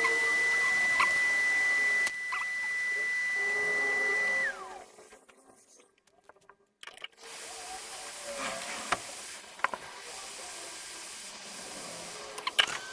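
Hot air rework station blowing with a steady high whine and hiss, which slides down in pitch and dies away about four and a half seconds in. After a short near-silence there are a few light clicks, and near the end a steady whine starts up again.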